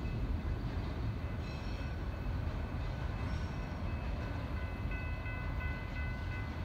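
BNSF freight train passing at a distance: a steady low rumble, with thin high tones that come and go.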